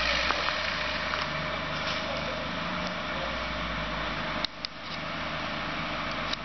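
Suzuki Samurai off-road 4x4's engine running steadily without revving, with a brief dip and a couple of clicks about four and a half seconds in.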